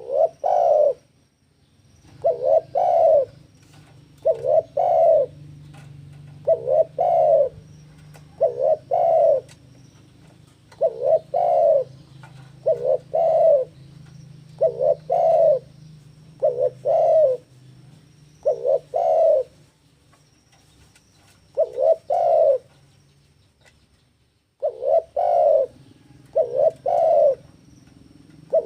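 Spotted dove (tekukur) cooing over and over, each phrase a quick group of coos, repeating about every two seconds with a couple of short pauses. It is the loud, persistent song of a male in breeding condition challenging a rival.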